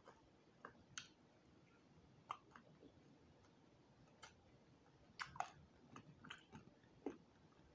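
Faint chewing of crispy roasted quail, with scattered small crunches and wet mouth clicks. A cluster of louder ones comes about five seconds in.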